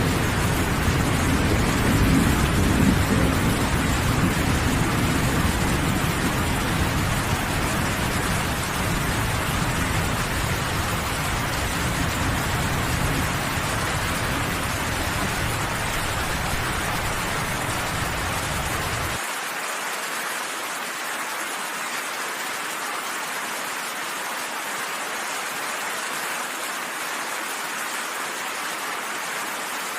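Steady rain with a low rolling thunder rumble beneath it. The rumble is strongest near the start, slowly fades, and stops abruptly about two-thirds of the way through, leaving the rain on its own.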